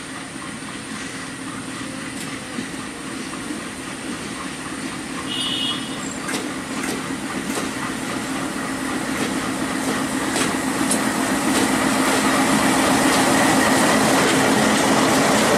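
Diesel locomotive hauling a train of wagons, approaching and passing close by: a steady engine drone that grows louder throughout, with wheels clicking over the rail joints more and more often toward the end.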